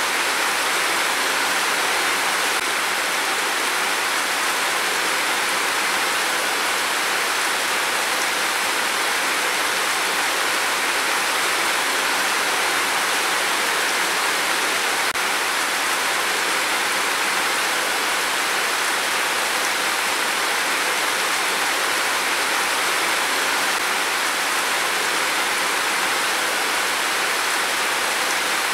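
Heavy rain pouring down steadily as an even, dense hiss, without a thunderclap or any change in intensity.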